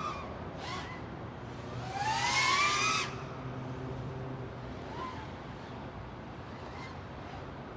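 FPV freestyle quadcopter's motors revving in the air: a rising whine about two seconds in that stops abruptly about a second later, with shorter throttle blips before and after over a steady low hum.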